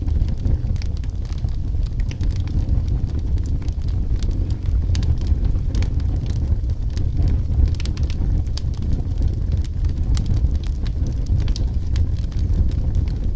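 Firewood burning in a fireplace, with many sharp, irregular crackles and pops over a steady low rumble.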